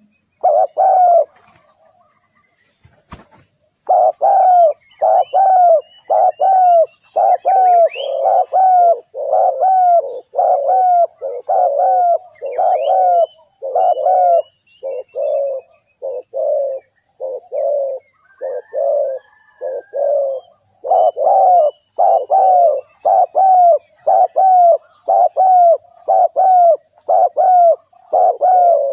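Spotted doves cooing: a long run of loud, quick repeated coos, about two a second, after a pause of a couple of seconds near the start that is broken by a single click. Faint chirps of small birds sound above them.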